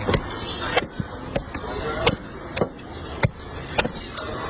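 A knife chopping down onto a cutting board, one sharp strike about every half second, slightly irregular, over a steady background hiss.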